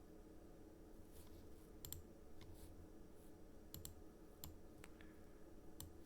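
Faint, scattered clicks of a computer mouse and keyboard, about eight over a few seconds, over a low steady hum.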